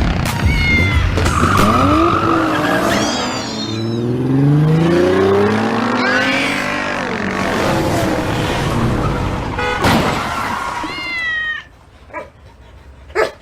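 A car engine revving, its pitch rising and then falling through the middle. A cat meows twice, about three seconds in and again near the end. The sound drops away shortly before the end.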